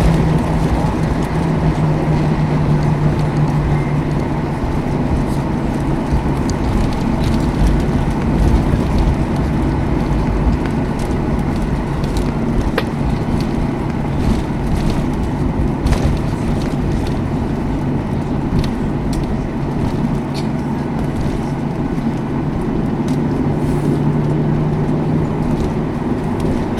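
Cabin noise of a Boeing 737-800 taxiing after landing: its CFM56 engines running at idle with a steady hum over a low rumble, with a few faint clicks.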